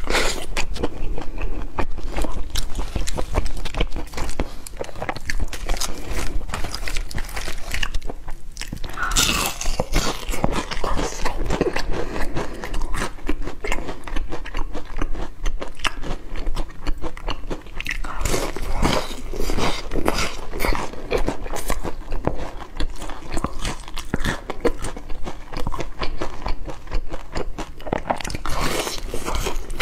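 Close-miked biting and chewing of crispy fried chicken, its crumbly batter crunching and crackling in dense, irregular bursts, with a short lull about eight seconds in.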